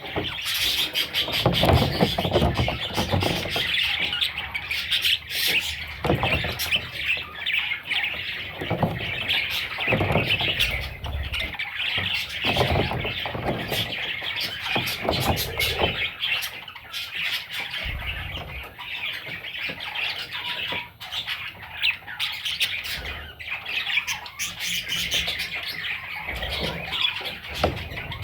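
A group of budgerigar chicks chirping and squawking in a continuous, overlapping chatter, with occasional low thumps.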